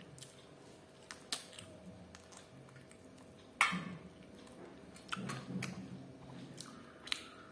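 Close-miked eating: chewing with a few sharp clicks, the loudest about three and a half seconds in.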